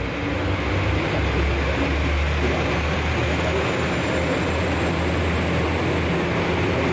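Train running: a steady low rumble with a faint high whine above it.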